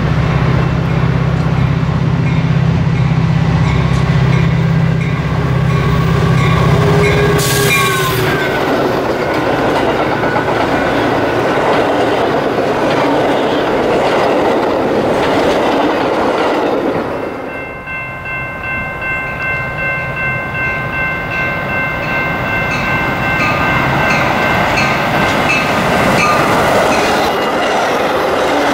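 Metra bilevel commuter train approaching and passing at speed, sounding its horn, which drops in pitch about seven seconds in as the leading car goes by. The stainless-steel cars then rush past with wheel clatter on the rails.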